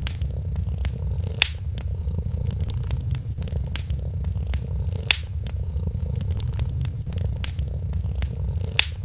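A cat purring steadily, low and continuous, over a wood fire crackling with scattered small snaps. Three louder pops from the fire stand out, about three and a half seconds apart.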